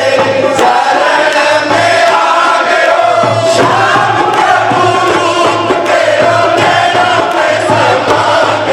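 A crowd of devotees singing a Shyam bhajan together, chant-like, over a steady low drum beat.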